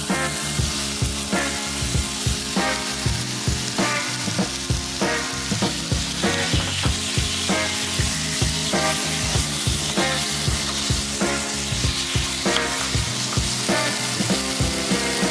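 Chilli-marinated chicken pieces sizzling as they fry in an oiled pan, stirred and turned with a wooden spatula. Background music with a steady beat plays underneath.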